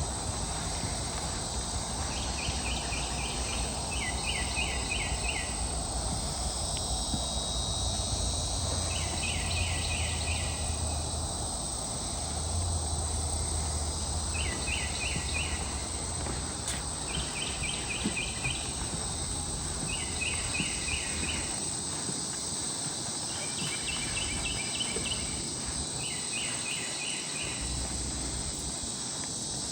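Swamp insects keeping up a steady high-pitched drone, while an animal repeatedly gives a short call of four or five quick notes, about every two to four seconds.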